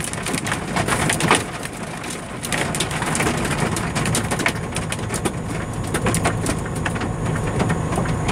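Hailstones striking a semi truck: a dense, irregular patter of sharp knocks, several a second, over a steady low hum.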